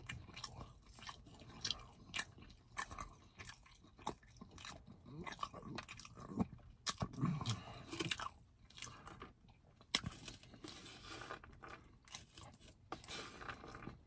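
A person chewing meat close to the microphone, with many irregular sharp clicks from the mouth.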